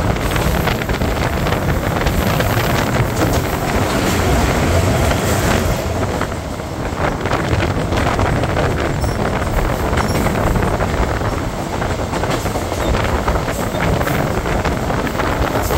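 Moving electric local commuter train: a steady heavy rumble from the carriage and wheels with scattered clicks and clatters from the rails, mixed with wind rushing over the microphone at the open door.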